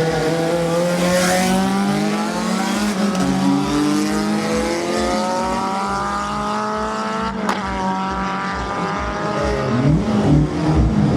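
Drag-racing car engine running hard, its pitch climbing steadily for several seconds, then a sharp crack about seven and a half seconds in as the pitch drops, before it climbs again.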